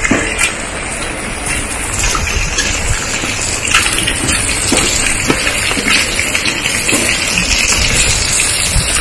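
Heavy rain falling, a dense steady hiss with scattered close drop hits.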